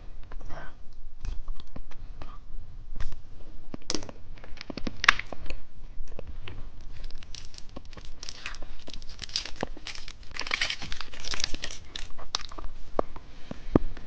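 Plastic candy wrappers being torn open and crinkled, in irregular crackling handling noise that grows busier past the middle.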